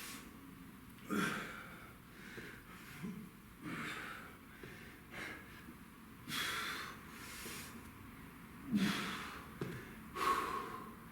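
Hard, effortful breathing of a man working through a core exercise: sharp exhales and gasps every second or two, the louder ones about six and nine seconds in.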